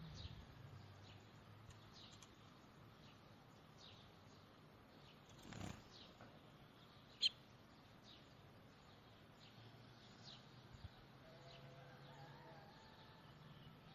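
Faint, scattered short bird chirps, with one sharper chirp about halfway through.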